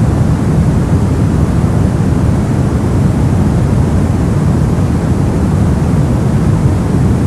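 Brown noise: a steady, deep rushing hiss with most of its energy in the low end, unchanging throughout.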